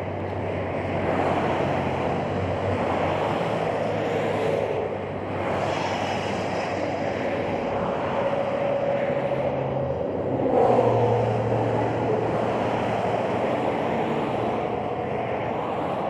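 Interstate highway traffic passing below the overpass: steady tyre and engine noise, swelling as a louder vehicle goes by about ten and a half seconds in, mixed with wind on the microphone.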